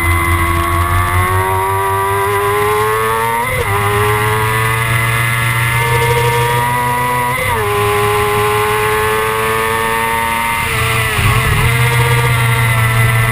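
Kawasaki ZX-6R's inline-four engine running hard at high revs, its pitch climbing slowly, with brief breaks in pitch about three and a half and seven and a half seconds in and a short dip near eleven seconds.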